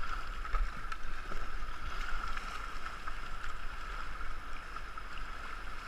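Racing canoe being paddled down a river: a steady rush of water and wind with faint knocks from the paddle strokes.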